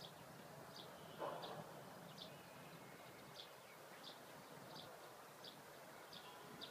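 Faint outdoor quiet with a small bird chirping over and over, a short high chirp roughly every half to three-quarters of a second, and one brief muffled noise about a second in.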